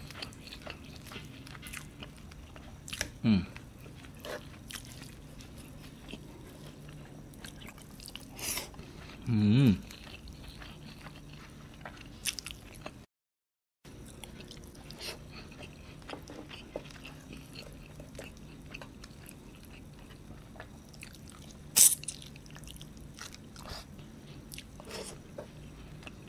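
Close-miked eating: chewing mouthfuls of rice and chicken curry taken by hand, with wet mouth noises and small clicks. Twice there is a short low hum that falls in pitch, and there is one sharp click near the end. The sound cuts out completely for a moment about halfway.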